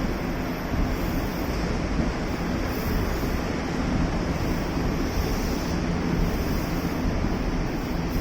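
Electric train running, a steady rushing rumble with a faint low hum.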